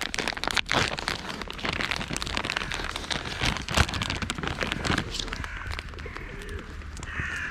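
Crinkling, crackling handling noise with many sharp clicks for about five seconds, then a crow cawing near the end.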